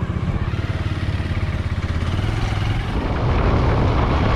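Motorcycle engine running as the bike rides off, with a fast, even pulsing. About three seconds in, the noise grows louder and broader, like wind picking up as it gains speed.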